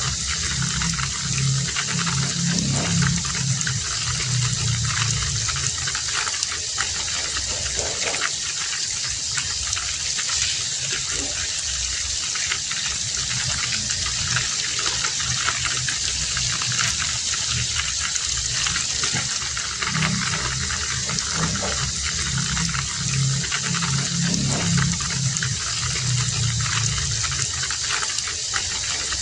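Heavy rain falling steadily, a dense even hiss. A low rumble swells near the start and again about two-thirds of the way through.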